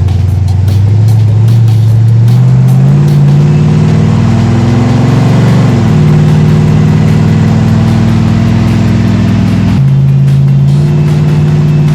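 Swapped-in V8 of a 1956 Chevrolet Bel Air pulling the car along, its pitch climbing steadily for about six seconds, then dropping sharply at a gear change and running steady, with another step up near the end.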